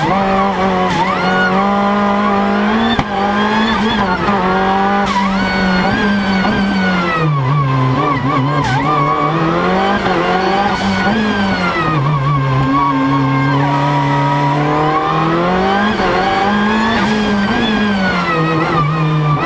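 Race car engine heard from inside the cockpit, running hard under load. Its note rises and falls with the throttle, twice sinking low for a few seconds as the car slows, then climbing again.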